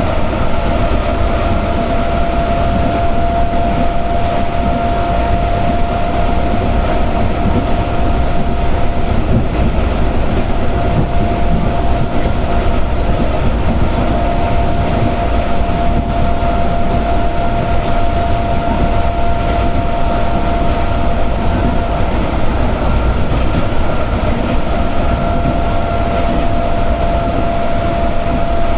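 Inside a moving electric commuter train carriage: a steady rumble of wheels running on the rails, with a steady high whine over it.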